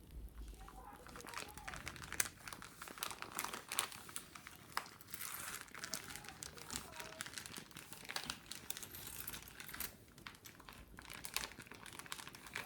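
Wicker basket being scratched and handled: a dry, crackly rustling of woven cane with many sharp little clicks and taps.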